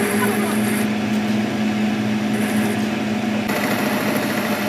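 A workshop machine running steadily with a constant hum; the sound shifts about three and a half seconds in, when a high hiss comes in.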